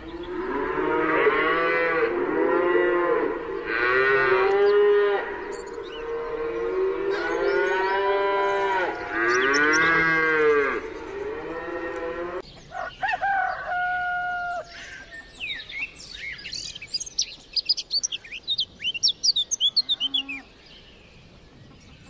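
Cattle mooing, several long calls overlapping one another, until they cut off abruptly about twelve seconds in. A brief steady call follows, then rapid high bird chirps.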